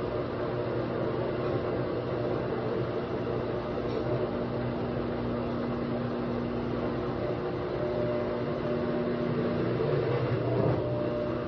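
Midea washer-dryer in its spin cycle, running with a steady mechanical hum and whir that carries a held tone, which drops out briefly near the end. This is the spin noise that the owner finds abnormal.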